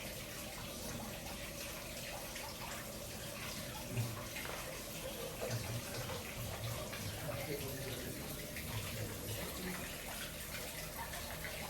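Steady running water, an even splashing hiss throughout, with faint murmuring voices in the background.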